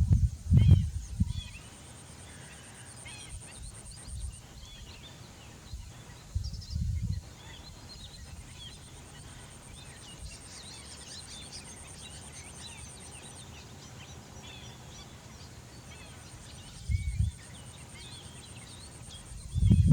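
Birds calling in a busy chorus of short chirps, with a steady high insect-like buzz that comes and goes. A few loud low rumbles break in, the strongest at the start and near the end.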